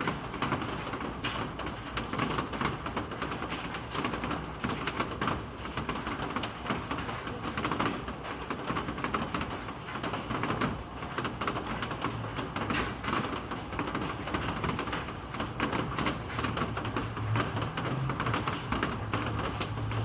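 Rain falling, a dense irregular pattering of drops hitting hard surfaces. A low hum comes in near the end.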